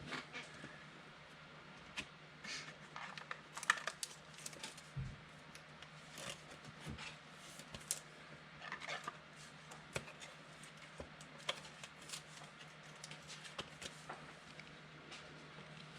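Trading cards being handled, faint scattered clicks and rustles as cards are flipped and slid through the hands, over a steady low hum.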